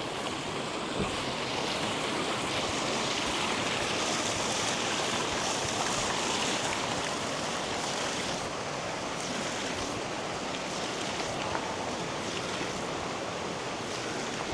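Steady rush of flowing water from the İvriz stream or waterfall.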